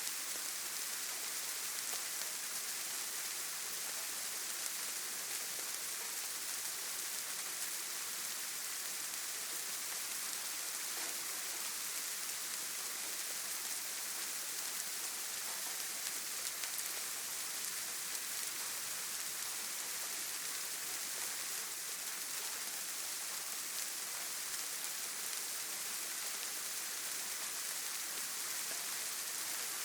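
Steady rain falling with an even hiss and faint scattered drop ticks.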